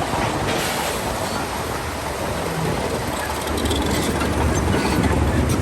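Crawler bulldozer (Shantui DH17C2) working, its engine rumbling under the clatter of its steel tracks, with scattered short squeaks and clinks from the track links. It grows a little louder in the last couple of seconds.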